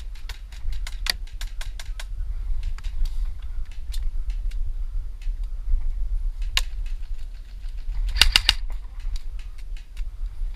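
Airsoft guns firing single semi-auto shots: sharp snaps scattered throughout, with a quick string of several shots about eight seconds in, the loudest of them, over a steady low rumble.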